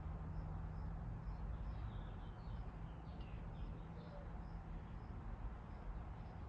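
Small birds chirping faintly in the background, with repeated short high chirps, over a steady low hum.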